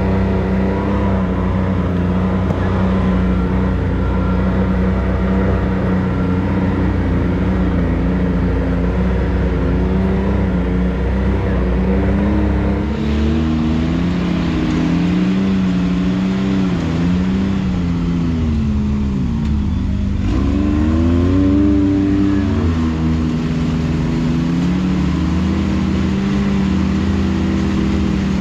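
Can-Am X3 side-by-side engine running under load while crawling over rock. It holds a fairly even pitch at first, then revs up and down several times in the second half as the throttle is worked.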